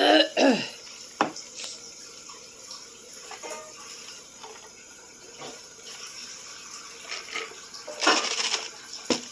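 Close-up eating sounds: slurping spicy noodles and broth, with small clicks of a utensil and one loud slurp about eight seconds in. A brief falling vocal noise at the start.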